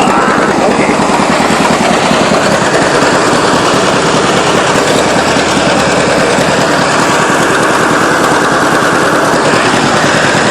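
Tractor engine running steadily at idle close by, with a loud, rapid, even chatter of exhaust pulses.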